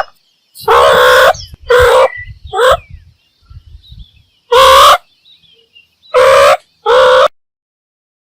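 Meerkat calls: six short, harsh pitched calls of about half a second each, spaced irregularly, over faint high bird chirps.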